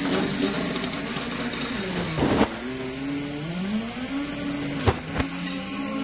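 A motor running with its pitch rising and falling, with a sharp knock about two seconds in and two more close together near the end.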